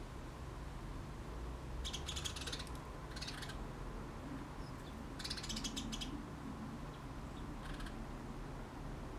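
Small birds chirping in short rapid bursts, four times, the longest about five seconds in, over a low steady outdoor rumble.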